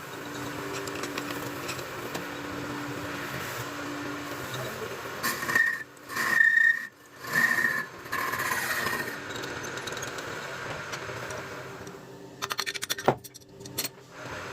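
Metal lathe running with a steady hum. About halfway through come three loud bursts with a high squeal, and near the end a quick run of clicks.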